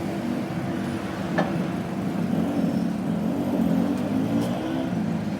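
Engine running, its pitch wavering up and down, with one sharp click about a second and a half in.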